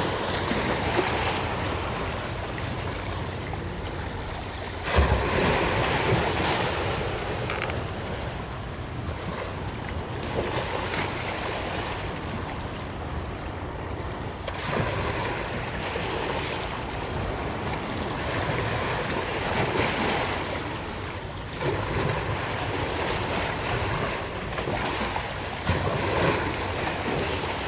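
Sea waves washing in along the shore, surging louder every several seconds, with wind buffeting the microphone.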